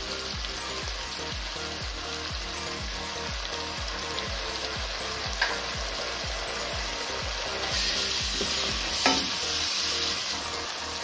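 Sliced onions, green chillies and curry leaves sizzling as they fry in hot oil in a pan, stirred with a wooden spatula. The sizzle swells louder for a few seconds near the end as the pan is stirred.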